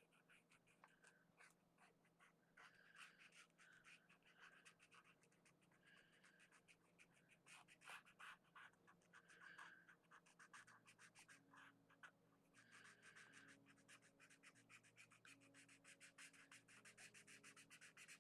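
Faint, rapid scratching of an ink pen on paper as areas of a drawing are filled in with many quick short strokes.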